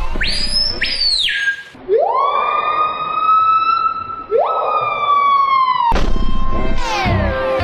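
A bird screaming: a short, high shriek, then two long calls that each swoop up and hold, followed near the end by a run of rapid sliding notes.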